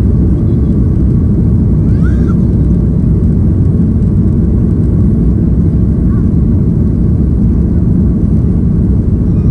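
Airliner cabin noise: the steady, loud low rumble of the jet engines and airflow heard from inside the cabin, with a faint brief wavering tone about two seconds in.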